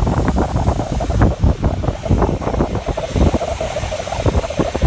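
Wind buffeting the microphone while riding, as loud uneven gusts of low rumble.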